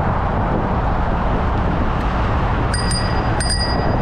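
A bicycle bell rings twice near the end, two quick dings about a second apart, over steady wind rumble on the microphone.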